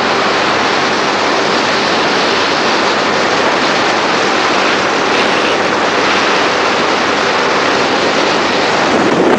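Loud, steady rush of wind and road noise from a moving motorbike, the wind buffeting the microphone.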